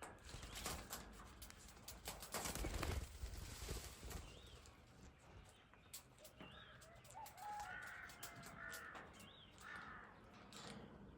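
Birds calling: a few short, high chirps and a run of harsher calls in the second half. Underneath is a rushing noise, loudest around the third second.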